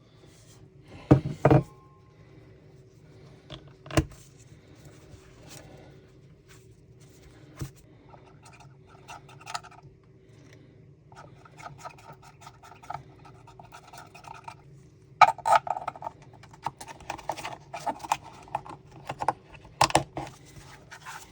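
Hard 3D-printed PETG parts knocking, scraping and rubbing against each other as pieces are turned and pressed into their sockets. There are a few sharp clicks in the first few seconds, then longer scratchy rubbing, loudest in the second half.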